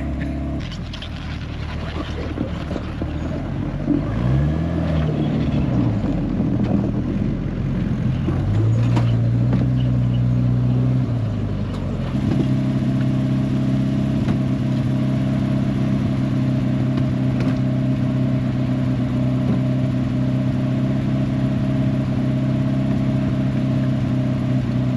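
Bombardier Bombi snowcat engine revving up and back down about four seconds in, revving again for a few seconds, then running steadily at a raised speed from about halfway through.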